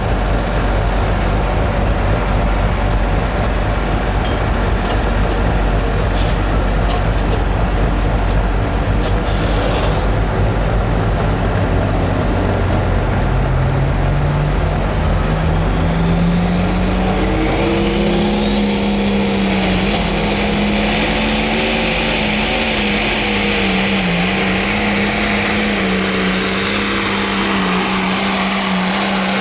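Turbocharged diesel engine of a Pro Stock pulling tractor running loud and steady, then climbing in pitch from around the middle and holding high, with a high turbo whine rising over it near the end.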